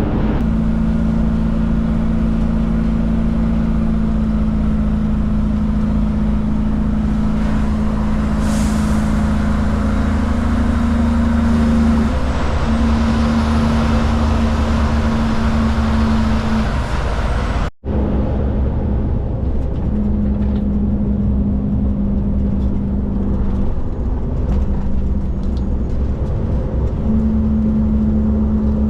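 Kenworth K200 truck's Cummins diesel engine running steadily under way, its note breaking off and shifting pitch a few times. A short high hiss of air sounds about eight seconds in.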